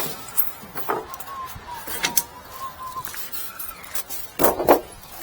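Scattered sharp knocks and clicks, the loudest two close together near the end, over a faint wavering high tone.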